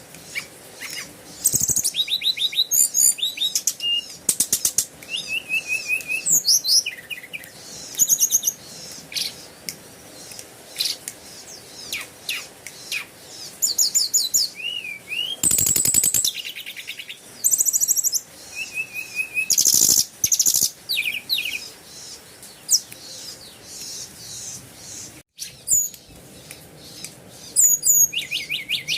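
Songbirds chirping and singing: a steady run of short high chirps, rapid trills and whistled phrases.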